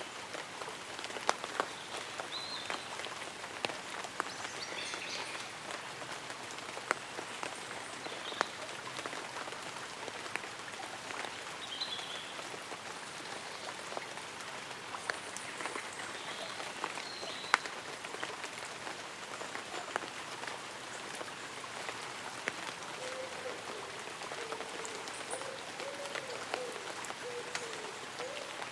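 Light rain falling on tree leaves and an umbrella: a steady patter with individual drops ticking sharply here and there. Short bird chirps come every few seconds, and a low wavering call joins near the end.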